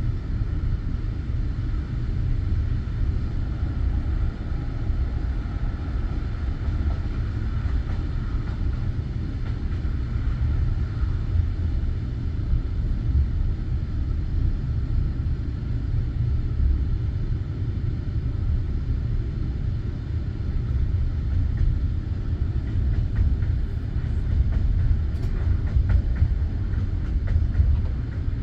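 Passenger train carriage rolling on the rails, heard from inside the car: a steady low rumble of the wheels with some clatter.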